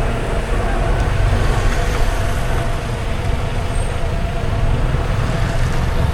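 Steady road and traffic noise while driving along wet city streets: a low rumble of the car and passing vehicles with a hiss over it.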